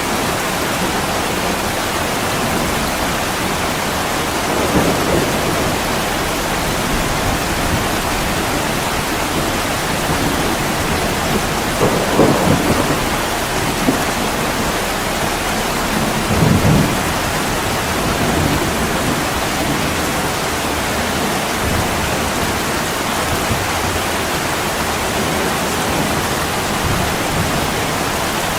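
Heavy rain pouring steadily onto a window, with three low rumbles of thunder rising out of it briefly, about five, twelve and sixteen seconds in.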